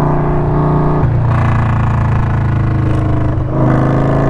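Indian Scout Sixty's V-twin running loud through a Hacker Mayhem 2-into-1 exhaust while being ridden. The engine note changes abruptly about a second in, and again near the end after a brief dip.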